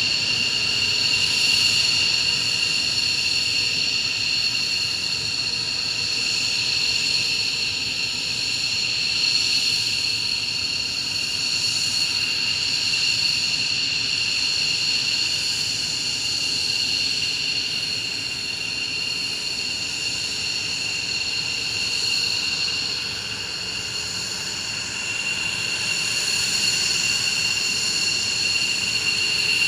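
Jet engines of a JASDF F-15J fighter running with a steady high whine over a constant rush of noise, easing a little in loudness about three quarters of the way through.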